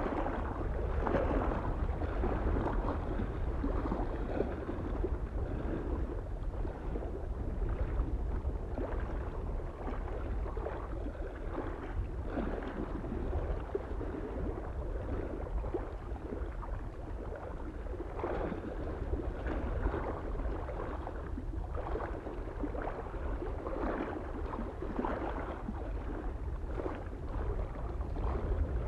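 Lake waves lapping against the shore in irregular splashes every second or two, over a steady low rumble of soft wind.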